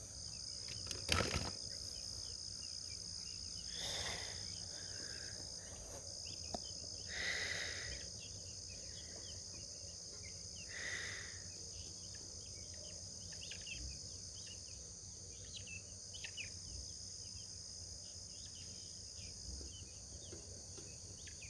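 Steady high-pitched chorus of crickets with scattered small bird chirps over it. A sharp click about a second in.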